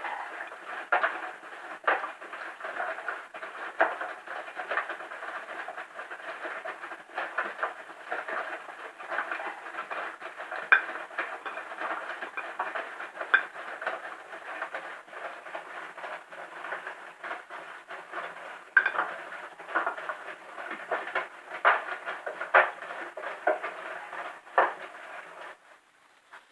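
Bosch Serie 4 laundry machine running with an irregular scraping, rattling noise dotted with sharp clicks, which stops about a second before the end. The owner guesses the drive belt has gone slack.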